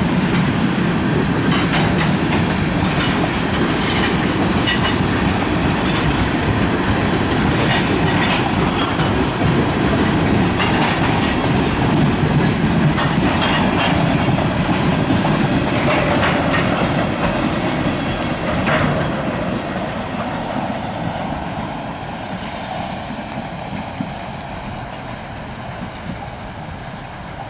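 Freight cars of a manifest train rolling past, wheels clicking over the rail joints in a steady rumble. From about two-thirds of the way in the sound slowly fades as the train moves off, with a faint high wheel squeal.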